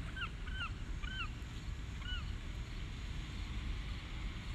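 Birds calling: a quick series of about six short calls, each rising then falling in pitch, in the first two seconds, over a steady low outdoor rumble.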